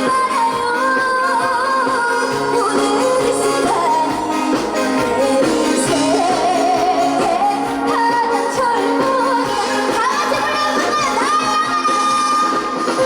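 Trot song performed live: a young female singer's voice carrying a gliding melody over steady backing music.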